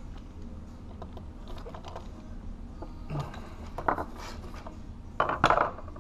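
Wire strippers clicking and scraping as they cut and pull insulation off the end of an electrical wire: scattered small clicks, with the loudest short rasp about five seconds in.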